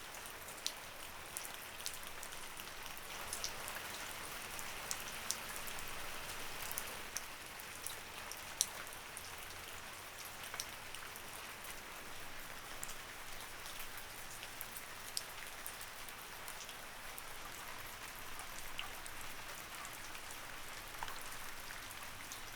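Light rain falling steadily, a soft hiss of rainfall with scattered sharp drips and drops ticking on a surface.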